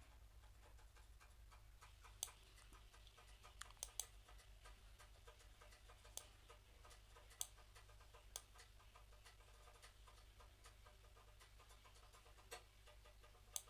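Near-silent room tone with about nine scattered sharp clicks from computer mouse and keyboard use.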